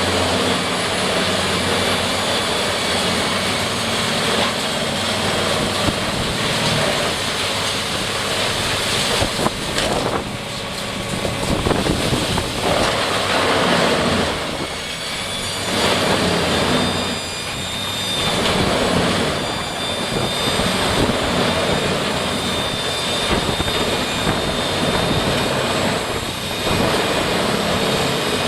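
A heavy wood-processing machine's engine running hard with a dense grinding noise. The load eases off briefly several times, and a thin high whine comes in about halfway through.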